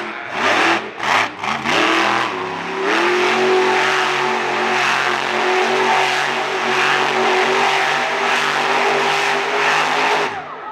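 Monster truck engine revving in quick bursts, then held at steady high revs for several seconds before dropping off near the end.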